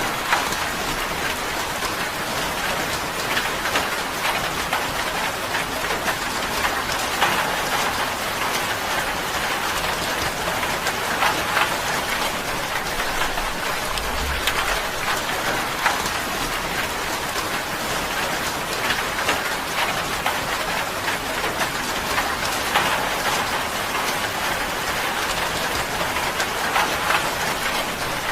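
Steady rain falling on a tin roof: a dense, even hiss made of many small drop ticks, with a brief low rumble about halfway through.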